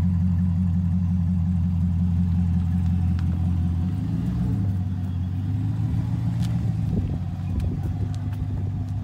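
Chevrolet Camaro V8 engine running at a low, steady idle as the car creeps up a steep driveway. The engine note changes about four seconds in, and a few sharp clicks come in the later seconds.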